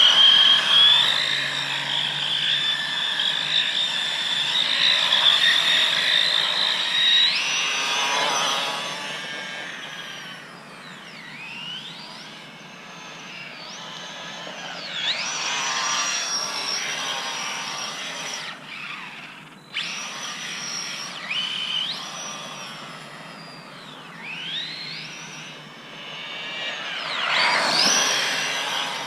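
Small electric motor of a miniature RC truck whining as it is driven, first at a high steady pitch, then rising and falling again and again as the throttle is opened and eased off, with a brief cut-out about twenty seconds in.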